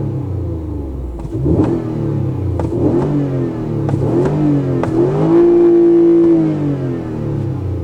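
Toyota Alphard's 3.5-litre 2GR-FKS V6 running under throttle: its pitch rises and falls several times in quick succession with a few sharp clicks, holds steady for about a second, then falls away near the end.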